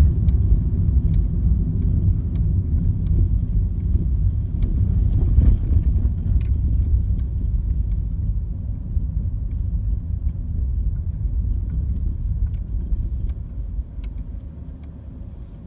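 Steady low rumble of a motor vehicle engine running, with scattered faint clicks; the rumble fades away over the last couple of seconds.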